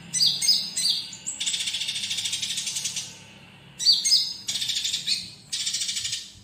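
Bar-winged prinia (konin) song: several sharp, falling chirps followed by rapid buzzy trills, repeated in bouts, over a faint low hum.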